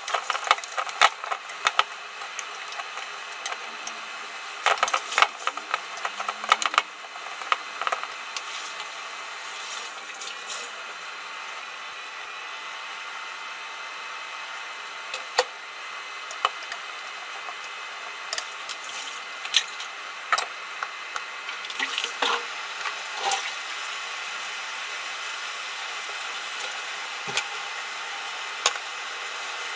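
Kitchen utensils and cookware clinking and knocking in irregular clatters over a steady hiss, busiest in the first few seconds and again around the middle.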